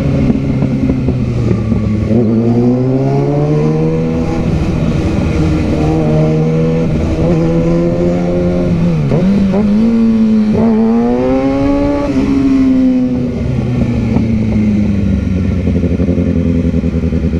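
Motorcycle engine heard from the rider's seat, its pitch rising and falling as the throttle is opened and closed, with a sharp dip about nine seconds in before it climbs again.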